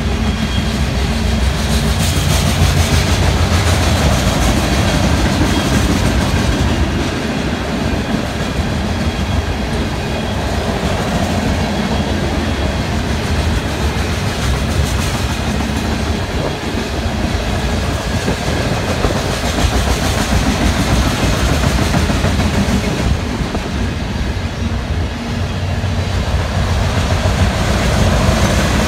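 Freight train of open-top hopper cars rolling past close by: a steady rumble of steel wheels on rail with repeated clacks from the wheels.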